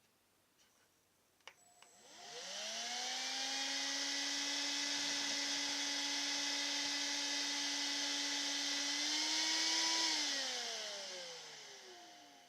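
Cordless handheld vacuum cleaner clicked on, its motor spinning up to a steady whine with rushing air, then rising slightly in pitch and winding down once switched off.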